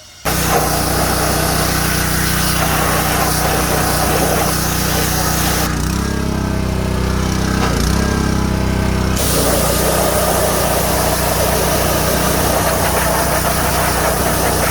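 A motor running steadily at a constant pitch. Its note changes for a few seconds in the middle: the hiss above it drops away and the pitch wavers before it returns to the steady sound.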